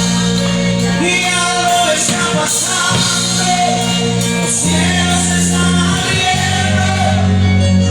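Live gospel worship music: a band with bass, keyboard and drums playing while singers carry the melody.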